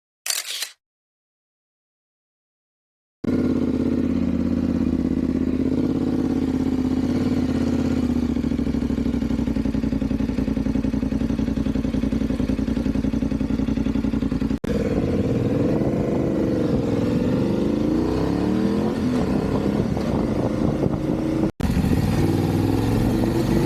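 Motorcycle engine under way: a steady drone for about ten seconds, then, after a cut, its pitch rising and falling with throttle and gear changes. A brief sound at the very start is followed by a few seconds of silence before the engine comes in.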